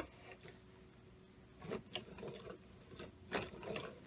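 Light, irregular mechanical clicks and taps as the model three-cylinder air engine's parts are turned by hand, the slider valve catching on the end of a nut as it rotates.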